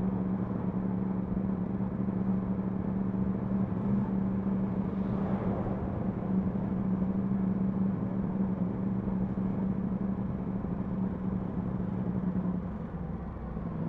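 Yamaha MT-10 SP motorcycle's 998 cc crossplane inline-four engine running at steady low revs while cruising slowly, with a slight easing off near the end.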